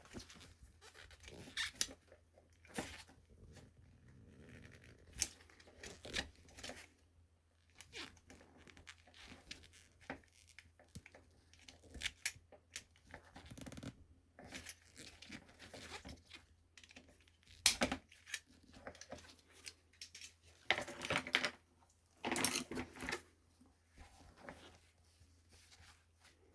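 Irregular clicks, scrapes and rustles of hands working on small parts and wire with hand tools, with two longer rasping sounds near the end.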